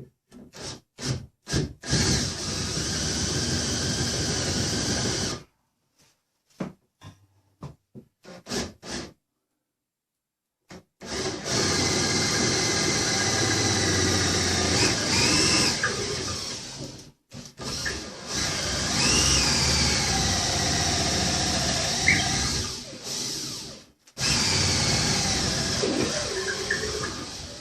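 Power drill run in a few short trigger blips and then in four long stretches of a few seconds each, its pitch dipping and recovering under load.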